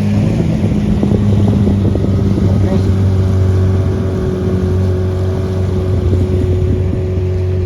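Engine running at a steady speed, with rough crackling noise over it in the first few seconds.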